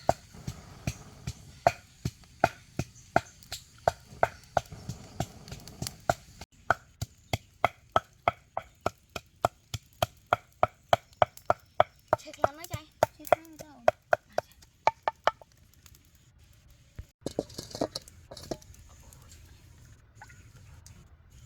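Knife chopping food on a cutting board in a steady run of sharp knocks. The strokes come about one or two a second at first, then faster at about three a second, and stop about 15 seconds in.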